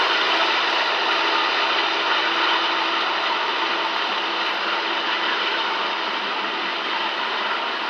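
Loaded freight cars of a sand train rolling past: a steady rattle of steel wheels on rail, with a faint steady ringing tone underneath, easing slightly.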